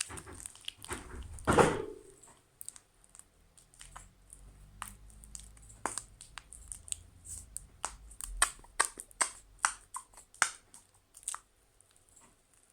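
Sticky, fluffy slime made with shaving foam being squished and kneaded by hand. A louder squelch comes about a second and a half in, then a run of sharp sticky clicks and pops that are thickest toward the end.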